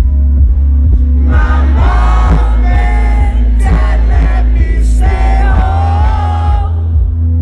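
Loud live pop music over a concert sound system: a heavy, steady bass beat, with a sung vocal line coming in about a second in and dropping out near the end.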